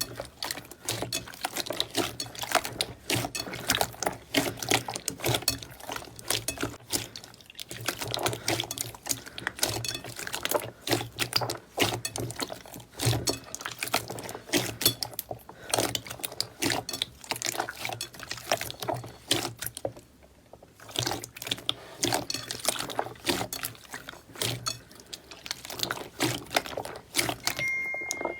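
Slime being squeezed and worked by hand, giving a dense, irregular run of wet, sticky pops and clicks.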